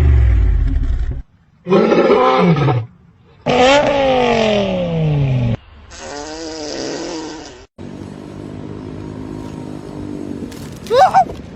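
A run of short animal calls, cut abruptly one after another: a loud, deep call at the start, then several drawn-out calls falling in pitch, a steady droning stretch, and a brief rising call near the end.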